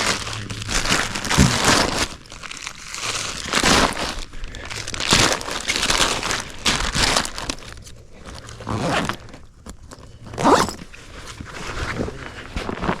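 Irregular crunching, crinkling rustles close to the microphone, coming in swells every second or so.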